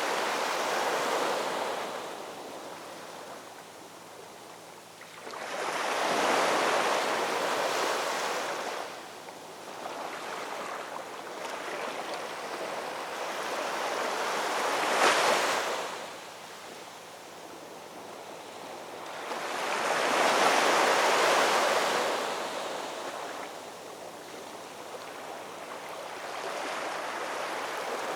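Ocean waves breaking on a shore, each surge swelling and washing back every five to seven seconds, with a sharper crash about fifteen seconds in.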